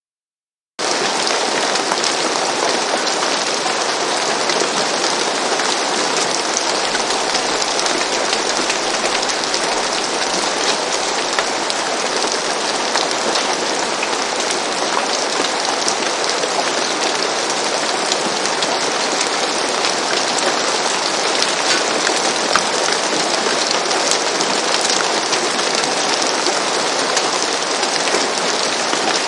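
Steady rain falling on a roof, cutting in suddenly from silence a little under a second in, then holding as an even patter.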